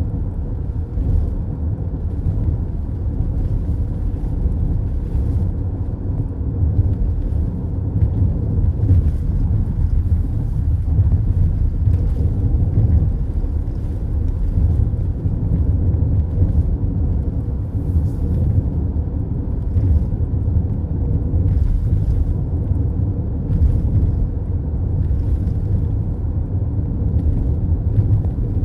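Steady low rumble of a car's road and tyre noise at highway speed, heard from inside the cabin, with faint light ticks now and then.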